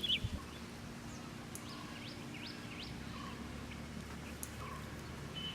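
Birds chirping: a few short, sharply rising calls, spaced out, over a faint steady low hum.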